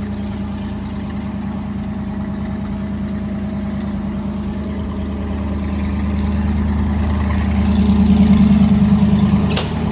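A heavy vehicle's engine runs steadily with an even pulsing hum and grows louder about three-quarters of the way through. A sharp click comes just before the end.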